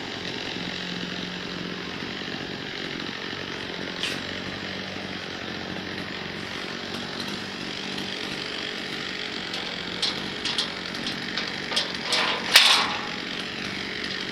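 Small petrol engine of lawn-care power equipment running steadily at a constant speed, with a string of sharp clicks and knocks near the end.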